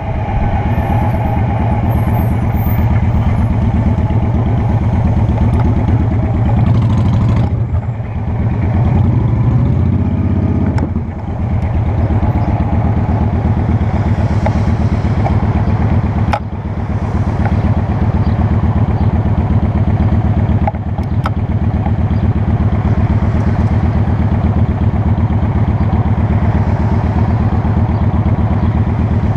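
Honda Shadow Spirit 750's V-twin engine running while riding, with its low, steady exhaust note. The sound briefly drops back four times and then picks up again.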